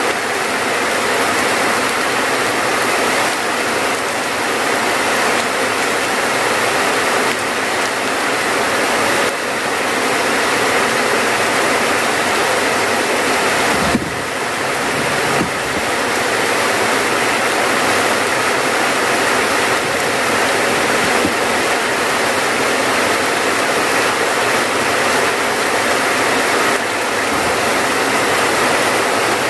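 Steady heavy rain falling, a dense even hiss. About halfway through there is one brief low thump.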